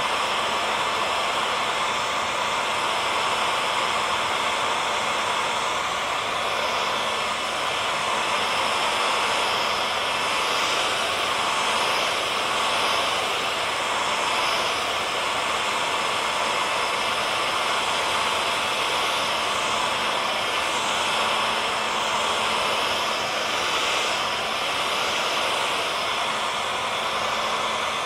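Hair dryer running steadily on one setting: an even rushing whoosh of blown air with a faint motor hum.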